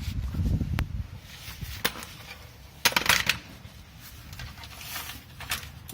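Scattered metallic clinks and knocks of hand tools and exhaust hardware being worked on, with a quick run of sharp clinks about three seconds in.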